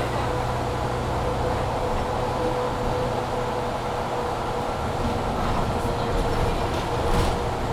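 Steady cabin noise inside a Mercedes-Benz Citaro C2 G articulated bus: the engine and running drone with a constant tone from the loud cabin heating over it. No acceleration or kickdown is heard; the level stays even, with a few faint clicks near the end.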